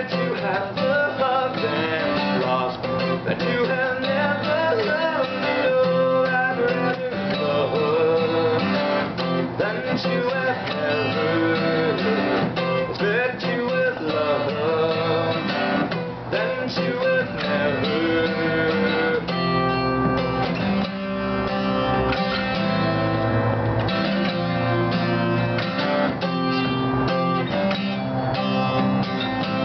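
Acoustic guitar strummed steadily in a song. A voice sings over it for about the first two-thirds, then the guitar carries on alone.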